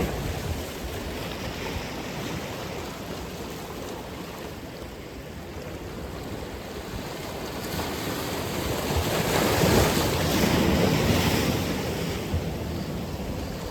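Atlantic Ocean surf: waves washing ashore, with one wave swelling to a loud break about ten seconds in and then fading, and some wind on the microphone.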